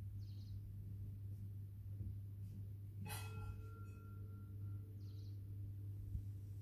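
A single light tap on a metal object that rings on in clear tones for about two seconds, over a steady low hum. Two short high chirps come, one near the start and one about five seconds in.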